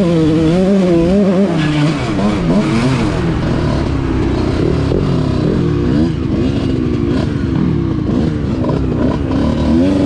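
Dirt bike engine being ridden hard, its pitch rising and falling over and over as the throttle is opened and closed; fairly steady for the first couple of seconds, then swinging up and down quickly.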